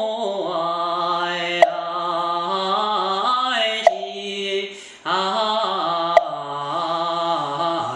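A Taoist priest solo-chanting a Quanzhen-style scripture hymn in a slow, drawn-out male voice, the melody sliding between held notes, with a short breath break about five seconds in. A sharp knock marks the beat roughly every two seconds.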